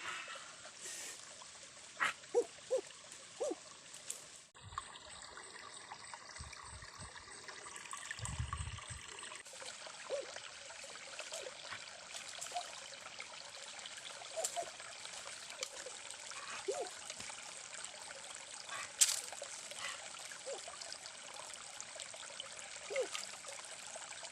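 Water trickling steadily in a shallow stream, with scattered small splashes and clicks and a few dull low thumps about five to nine seconds in.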